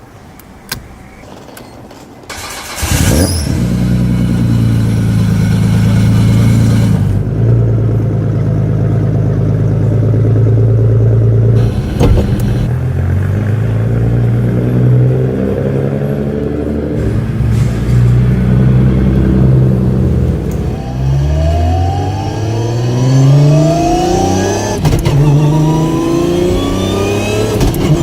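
Nissan R34 GT-R's twin-turbo RB26 inline-six, built with an HKS 2.8 stroker kit, starting up with a sudden loud catch about three seconds in, then running at idle with its pitch shifting. Near the end it is revved in several quick rising sweeps.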